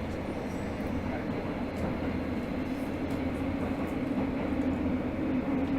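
Tokyo Metro 13000 series subway train running, heard inside the carriage: a steady rumble with a low hum that grows slightly louder near the end.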